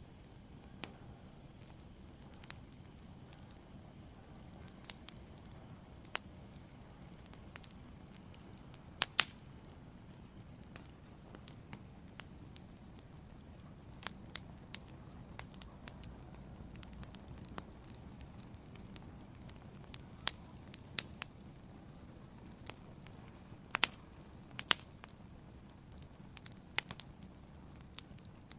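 Log fire burning in a fireplace: a steady low rumble of flame under irregular sharp crackles and pops, with a few louder snaps about nine seconds in and again around twenty-four to twenty-five seconds.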